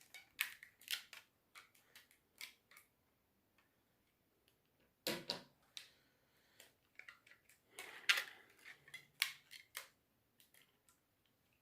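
Faint, scattered clicks and light taps from a smartphone being handled, with a louder knock about five seconds in and a cluster of clicks around eight to nine seconds.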